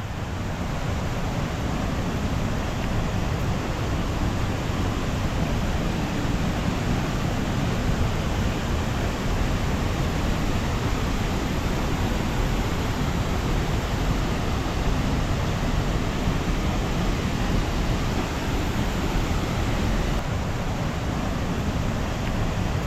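Waterfall rushing steadily, a loud, even noise of falling water that does not change.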